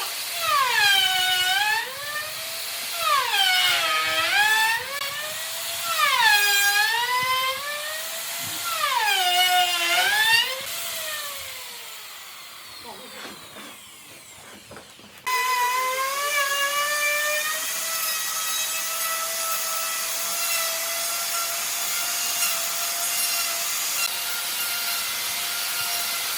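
Handheld electric power tool working wood. For the first ten seconds its motor drops in pitch and recovers about every two and a half seconds as it is pressed into the cut and eased off. After a quieter lull it starts again about fifteen seconds in, spins up and runs at a steady pitch without load.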